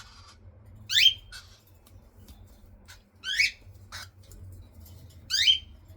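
Baby cockatiel chicks making food-begging calls: three short, loud calls that sweep up in pitch, about two seconds apart, with a few faint clicks between.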